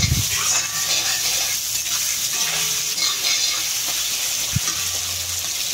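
Potato chunks frying in hot oil in a kadai, sizzling steadily as a metal spatula stirs them.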